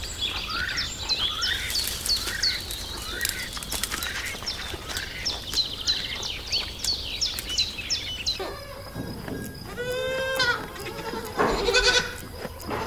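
Goats bleating, several wavering bleats from about two-thirds of the way in, the loudest near the end. Before them a short high chirp repeats about once a second.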